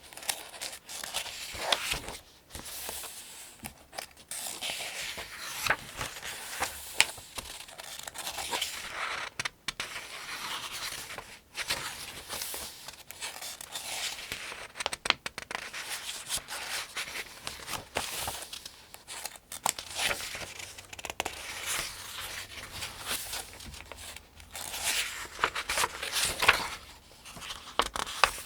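Pages of a paperback almanac being turned one after another at a steady, unhurried pace: repeated swishes and crisp flaps of thin paper, with small rustles between turns.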